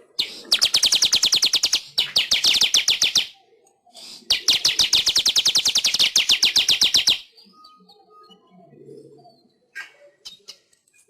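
Manyar weaver bird singing two long, rapid, buzzy trills of evenly spaced notes, about ten a second, with a short gap between them; after the second trill, only a few faint calls follow.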